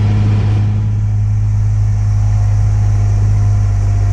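A vehicle's engine running steadily with a low, even drone.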